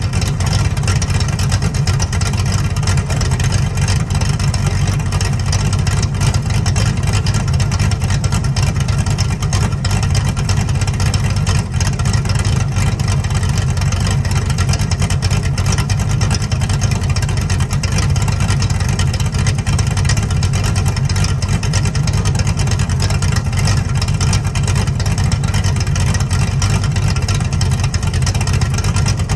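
1983 Ford Mustang GT's 302 (5.0 L) V8, fitted with an E303 cam, an Edelbrock carburettor and BBK long-tube headers, idling steadily, heard at the exhaust from behind the car.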